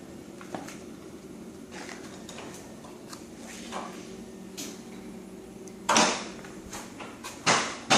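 A faint steady hum with a few light clicks, then a loud sharp knock about six seconds in and two more near the end, each dying away quickly.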